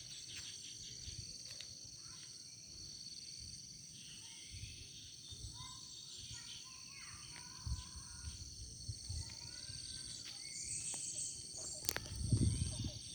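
A dawn chorus of wild birds chirping and calling over a steady, high-pitched insect drone. Near the end there is a sharp click and a low rumble.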